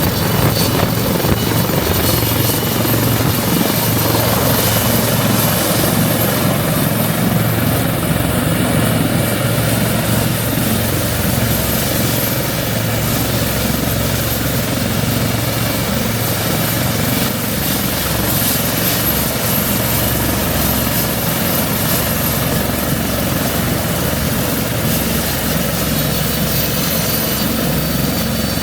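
Westland Lynx helicopter running steadily: rotor and twin turboshaft engine noise with a steady, very high turbine whine on top.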